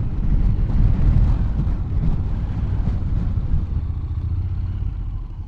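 Motorcycle riding along a road, its engine and the rush of riding making a steady low rumble that grows quieter over the last second or so.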